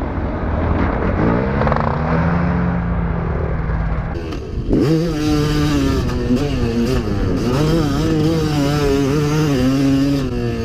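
Motocross dirt bike engine revving under load around a track, its revs rising and falling with the throttle. About four seconds in, the revs drop briefly, then climb sharply, and they keep wavering up and down after that.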